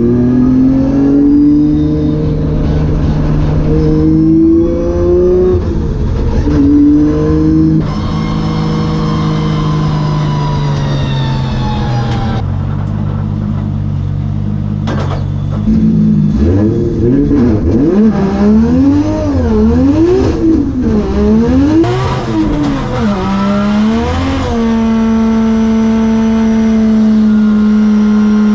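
Drift car engine running hard. Its pitch climbs and drops in steps as it revs and shifts, then swings rapidly up and down with on-off throttle through the middle, and is held at steady high revs near the end.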